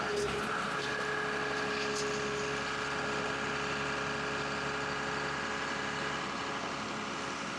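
Forestry log forwarder's engine running steadily, with a steady whine over the engine note.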